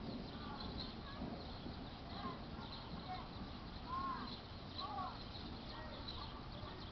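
Birds chirping: several short arched chirps and faint high calls over a steady low rumbling noise.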